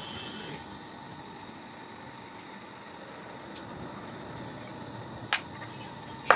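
Steady background noise with a faint hum, then two sharp metal clinks, one about five seconds in and one near the end.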